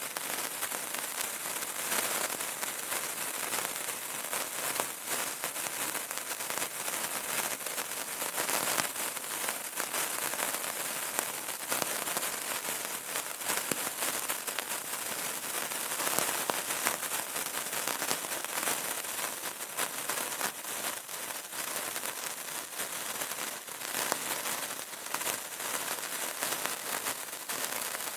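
Burning candle crackling: a dense, steady stream of small pops and crackles, with no pauses.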